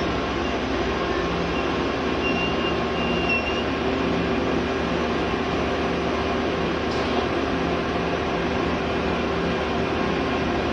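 Rail grinder train rolling slowly past, its engines running with a steady hum over the rumble of steel wheels on the rails.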